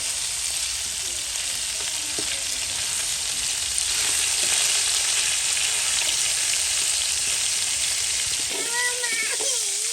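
Food frying in hot oil: a steady, even sizzle, likely the chicken being fried.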